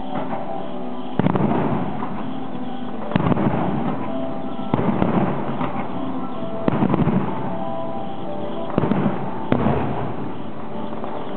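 Aerial firework shells bursting one after another, six bangs roughly every two seconds. Each bang is followed by a short crackling rumble.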